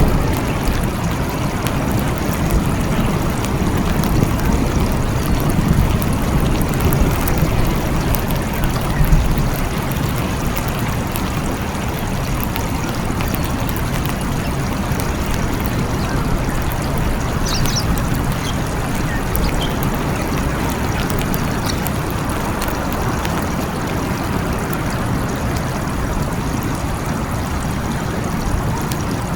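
Steady heavy rain falling, with a low rumble of thunder in roughly the first third that then dies away, leaving the rain alone.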